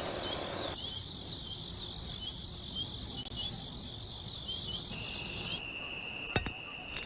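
Crickets chirping in quick, even trills with a steady high insect drone behind them. A broad motor-like noise under the chirping stops about a second in.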